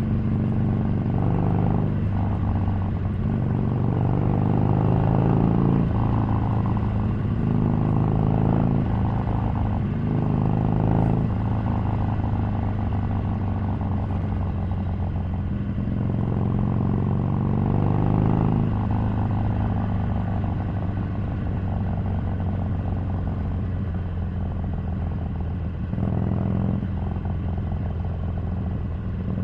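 Harley-Davidson Sportster 883's air-cooled V-twin engine running on the move, its revs rising and falling again and again with the throttle, with a brief drop about 26 seconds in.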